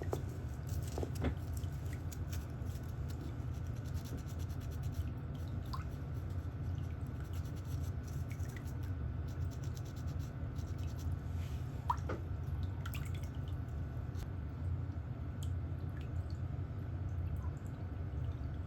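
Scattered small clicks of nail-care tools working on a toenail, over a steady low hum.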